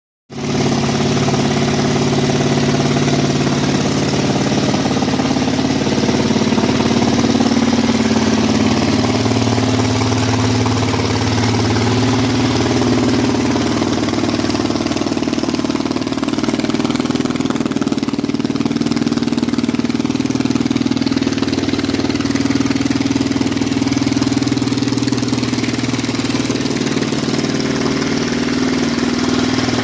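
2004 Kawasaki KLR 650's single-cylinder four-stroke engine running steadily at idle through its exhaust, its pitch wandering only slightly.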